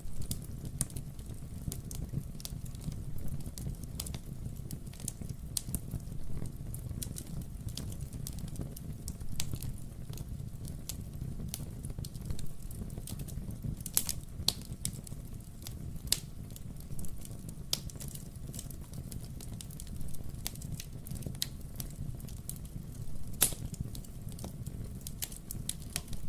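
Wood-burning fireplace crackling: burning logs give a steady low rumble with frequent sharp pops and snaps. There is a louder pop about halfway through and another near the end.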